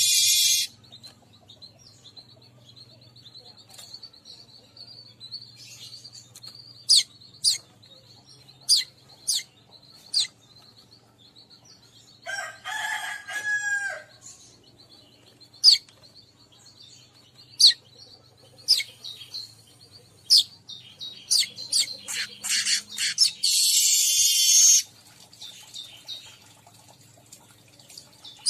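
Weaver birds calling: scattered sharp high chips, a dense chattering burst about halfway through, and a loud wheezy buzz near the end, over a steady high whine.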